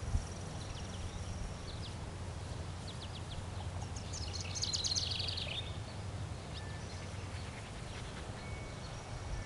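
Small birds chirping, with a fast run of chirps about four seconds in, over a steady low rumble.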